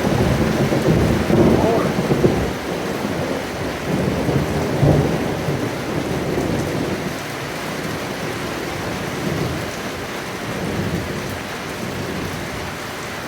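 Heavy rain falling steadily while thunder rumbles. The rumble is strongest in the first few seconds and dies away, leaving the rain.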